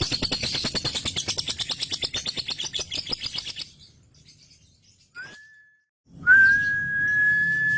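Male lovebird's 'ngekek': a long, rapid chattering trill of repeated notes that fades out about three and a half seconds in. After a pause, a short whistled note, then a long, steady whistled note held through the end.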